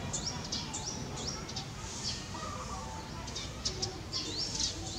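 Small birds chirping: many short, high chirps and hooked whistled notes, several a second, over a low steady rumble.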